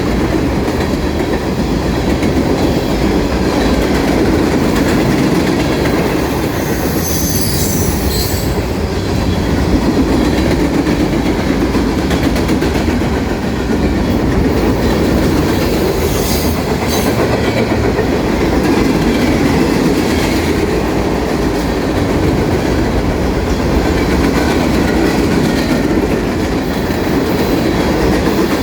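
Norfolk Southern freight train rolling past with a steady rumble and clatter of wheels on rail, and brief high wheel squeals about seven seconds in and again around sixteen seconds.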